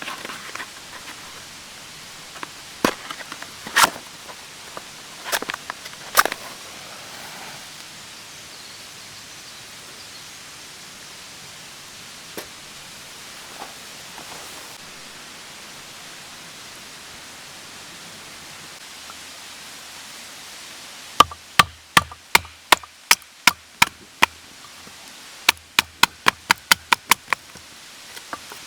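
Sharp chopping strikes: a few scattered knocks early on, then two quick runs of about nine strokes each near the end, about four a second, over a steady low hiss.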